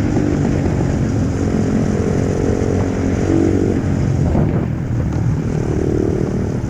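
Pit bike's small single-cylinder engine running under throttle, its pitch climbing and dropping off twice as it revs.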